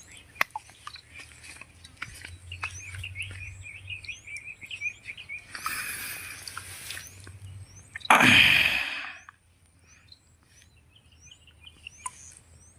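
Small birds chirping in quick runs of high notes, with faint short rising calls higher up. About two-thirds of the way through, a loud, brief rustling burst, and a softer one a couple of seconds before it.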